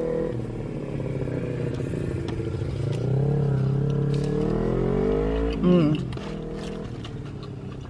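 A vehicle's engine going past, its pitch rising as it accelerates, loudest a little over five seconds in and then fading away.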